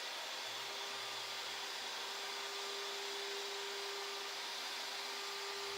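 Boeing 737 flight deck background noise during descent: a steady rushing hiss of airflow and air conditioning, with a constant hum underneath.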